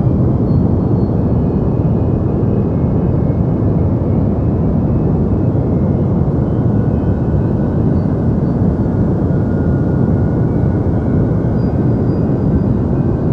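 Deep white noise for sleep: a loud, perfectly steady rush, heavy in the bass and muffled on top, with a few faint thin tones drifting above it.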